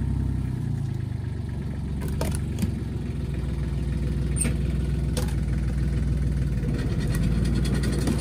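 Tractor engine running steadily under way, with a low, even throb and a few light knocks or clanks in the middle.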